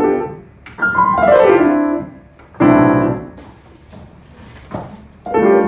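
Piano playing: a chord, a quick run of notes falling in pitch about a second in, then two more chords struck and left to ring and fade.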